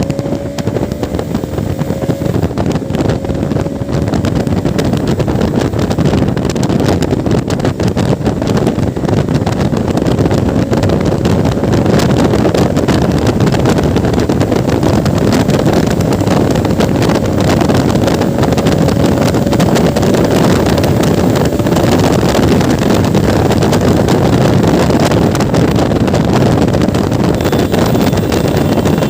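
Motorcycle on the move: the engine runs steadily under heavy wind buffeting on the microphone, its note rising slightly in the first few seconds.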